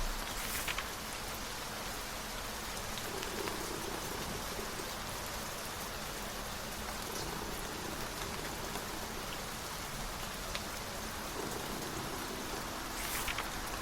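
Steady rain falling, with two brief rustles of a book page turning, one about half a second in and one near the end.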